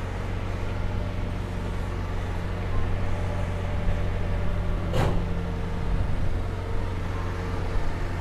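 2005 Toyota Innova's petrol engine idling steadily, heard from inside the cabin, with a single sharp click about five seconds in.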